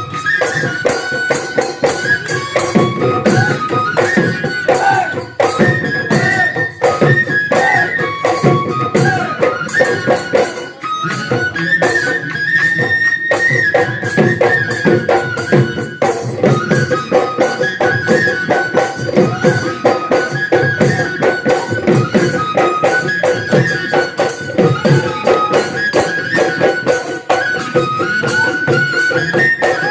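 Assamese Bihu folk music: a high wind-instrument melody in held, stepping notes over fast, steady drumming and cymbals.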